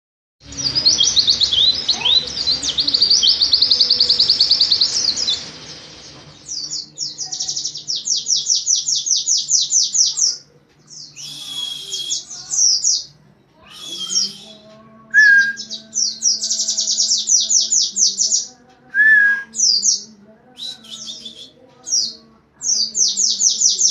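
Pleci (white-eye) singing its rapid 'nembak' song: fast, high runs of notes in bursts of a few seconds, the longest at the start, with short calls in the gaps.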